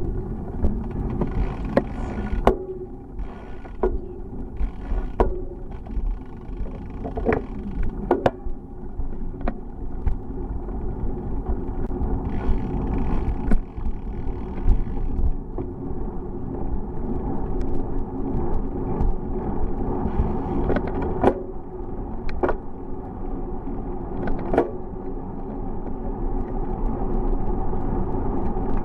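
Bicycle ride noise: a steady rumble of tyres on the road, with scattered sharp clicks and knocks throughout.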